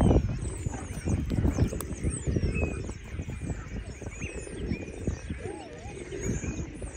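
Pond birds chirping and calling, with many short high chirps and one lower swooping call about five and a half seconds in, over irregular low thumps and rumble that fade after the first second or so.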